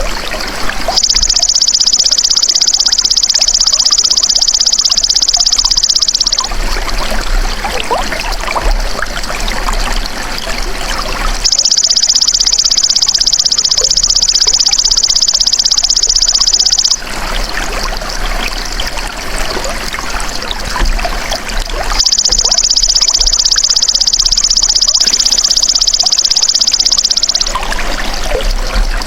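A belalang emas (golden grasshopper) calling in three long, high-pitched buzzing trills, each about five and a half seconds, spaced about ten seconds apart. Trickling water runs steadily underneath.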